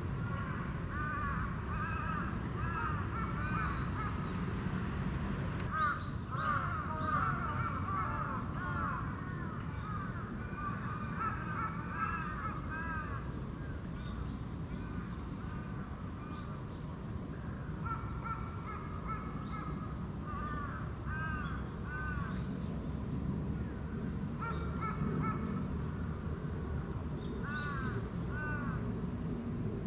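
Birds calling repeatedly in series of short arched calls, several overlapping at times, over a steady low rumble.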